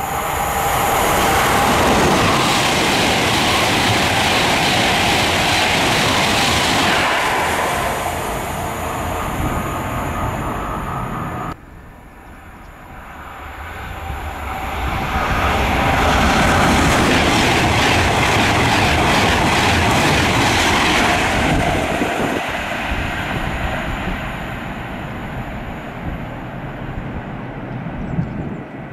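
Two trains passing at speed through a station, with the rush and clatter of wheels on rail. The first passes loudly and fades, then cuts off abruptly. The second, a Class 390 Pendolino electric train, builds to a loud pass and then fades.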